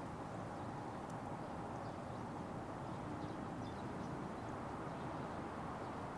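Wood fire burning in a Petromax Atago fire pit: scattered faint crackles and pops over a steady low noise.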